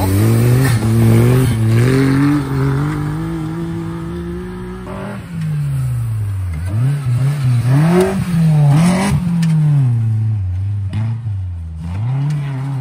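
Suzuki Jimny 4x4 engines revving hard while driving up through deep snow. The engine note rises and drops sharply again and again, with a different car's engine heard after each cut.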